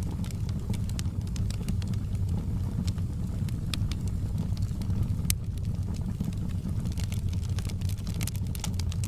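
Fire burning in a fireplace: a steady low rumble of the flames with irregular crackles and pops, one sharper pop about five seconds in.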